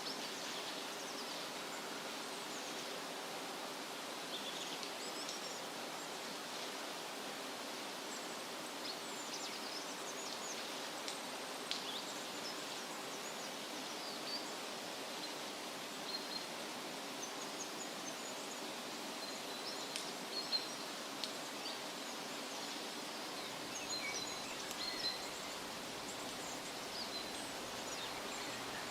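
Steady wind rustling through tree leaves, with small birds chirping in short high calls scattered throughout.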